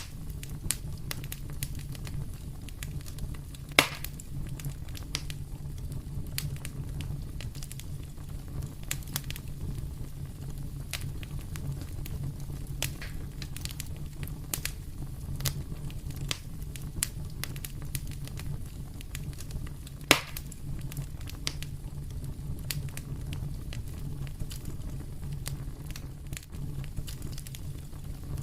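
Fire in a fireplace crackling, with a steady low rumble from the flames under frequent small pops. Two louder pops stand out, about four seconds in and again about twenty seconds in.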